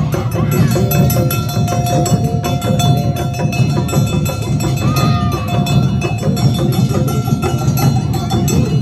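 Awa odori festival band playing loud, fast procession music: rapid metallic clanging of kane hand gongs and drum beats, with a held flute line over them.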